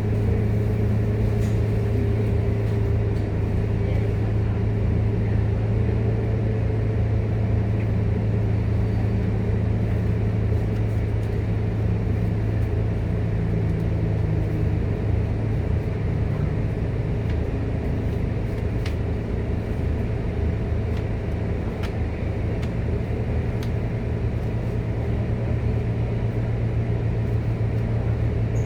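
Scania K230UB city bus engine droning steadily under way, a continuous low hum with a rumble of road noise and no pauses.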